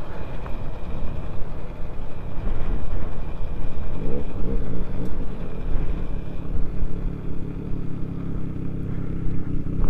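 KTM 690 Duke R's single-cylinder engine, fitted with an aftermarket Fresco exhaust, running as the bike rides along, under heavy wind rumble on a helmet-mounted camera. The engine note comes through steadier and clearer near the end as the bike slows.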